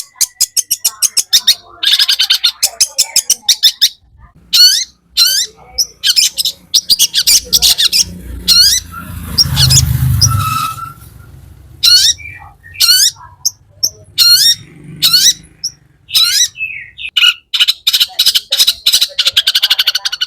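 Long-tailed shrike (cendet) singing. It gives fast, harsh chattering trills in bursts of about two seconds, broken by single sharp down-slurred notes. A low rumble comes in briefly around the middle.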